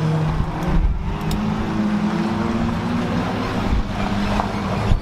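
A car engine running at a fairly steady speed, its pitch rising slightly about a second and a half in, with rumble and road noise under it.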